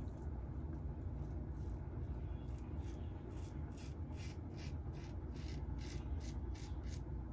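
Double-edge safety razor scraping through lathered stubble in short, quick strokes, about two to three a second from a few seconds in, over a steady low hum.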